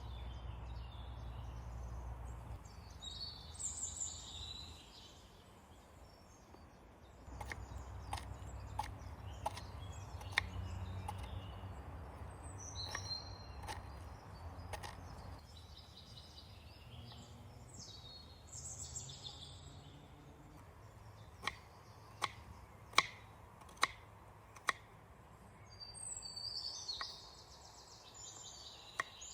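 Songbirds calling on and off over a low outdoor rumble, with scattered sharp clicks and knocks, the loudest a run of five in the second half.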